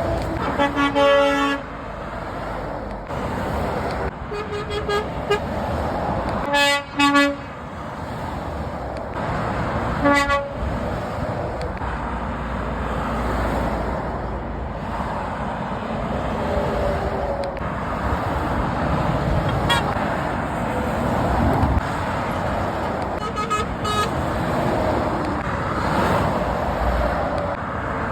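Steady motorway traffic noise with lorries passing, broken by several horn blasts: a long one about a second in, shorter blasts around four to five seconds, a double blast around seven seconds, one near ten seconds and a brief toot near the end.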